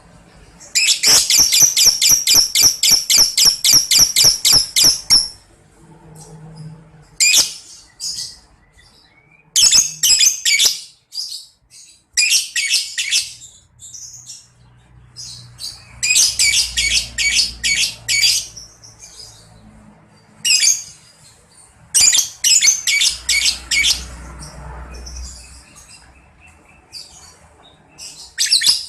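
Lovebird ngekek: a long, fast chattering trill of evenly repeated high notes, about six a second, lasting some four seconds. It is followed by a string of shorter chattering bursts.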